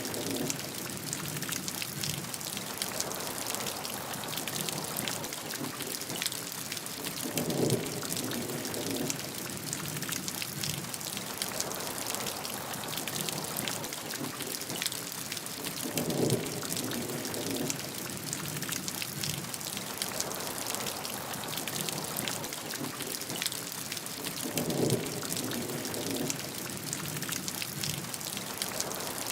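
Steady heavy rain, a dense patter of drops on a surface. A short low rumble comes back three times, about every eight or nine seconds.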